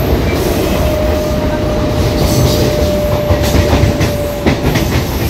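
Mumbai EMU local train running, heard from inside the coach: a continuous loud rumble and rattle of wheels and carriage. A thin steady whine sounds for about three seconds from around a second in, and a run of sharp clacks over the rail joints comes past the middle.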